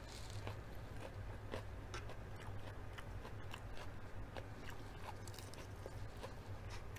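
A person chewing food close to the microphone, with scattered wet mouth clicks and small crunches, over a low steady hum.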